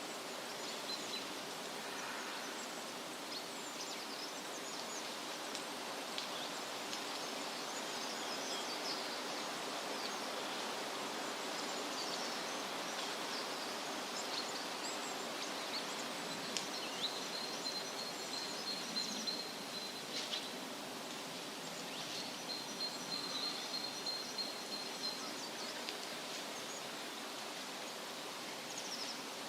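Steady wind rustling through leaves with small birds chirping. A high, even trill comes twice, once in the middle and again later.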